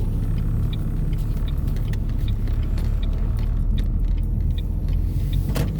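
Steady low road rumble inside a moving car, with an even, quick ticking of about two to three clicks a second, like a turn-signal indicator. A short knock sounds near the end.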